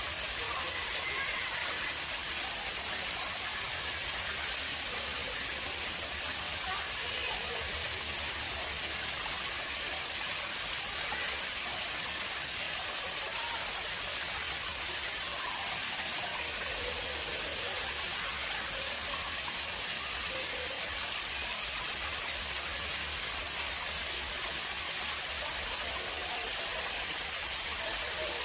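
Water flowing steadily into an artificial pond, an even, continuous rush and splash.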